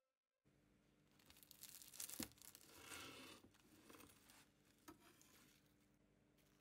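Knife cutting through crisp baked puff pastry, its flaky layers crackling faintly, with a sharp tap about two seconds in.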